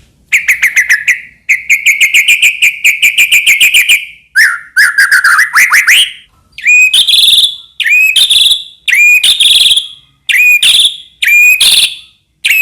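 White-rumped shama (murai batu) singing loudly. The song opens with fast trilled runs of notes, then from about halfway the bird repeats the same short whistled phrase about once a second.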